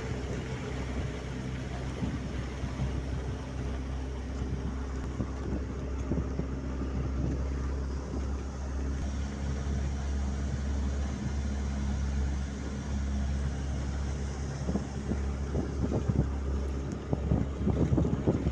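An engine running steadily under wind noise on the microphone. The wind gusts grow stronger near the end.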